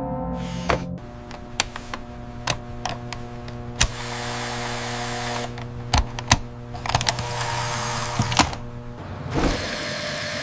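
Added sound effects of equipment being handled: a run of sharp clicks and clunks, with a few spells of hissing, over a steady low hum.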